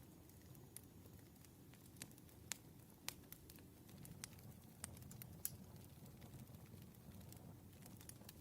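Campfire burning quietly, a low rumble of flames with sharp, irregular crackles and pops, about seven in a few seconds.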